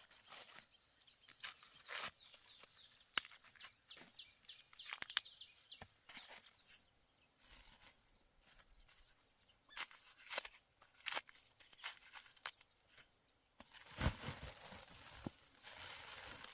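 Dry plant material being handled: a run of sharp crackles, snaps and short tearing sounds, then a denser rustle of dry leaves or husks near the end.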